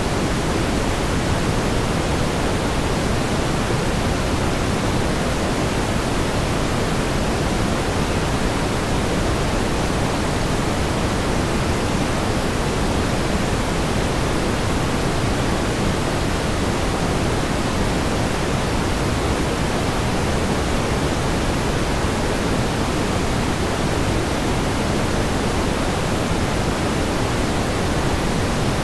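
Steady pink noise: an even, unchanging hiss weighted toward the low end, with no rise, fall or separate events.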